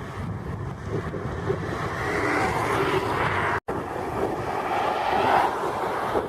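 Storm wind rushing over the microphone, a steady noisy roar that swells toward the middle, broken by a sudden split-second dropout a little past halfway.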